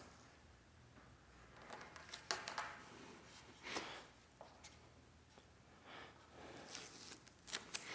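Faint handling noises of wood trim pieces being fitted and held together: a few light taps and short rustles, with quiet pauses between.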